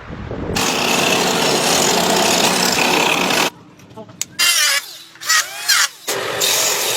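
Woodworking tools working wood in a few short cut-together shots: a steady loud stretch, a sudden drop, then short strokes with brief squealing rises and falls, then steady cutting noise again.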